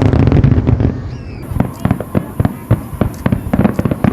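Fireworks going off in quick succession: a heavy rumbling boom in the first second, then a dense run of sharp bangs and crackles. A steady high hiss begins about a second and a half in.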